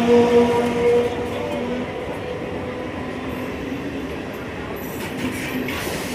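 Electric multiple-unit local train pulling out of a station and gathering speed, its coaches rolling past with wheel-on-rail clatter. A steady hum fades away in the first two seconds, and a faint high squeal comes near the end.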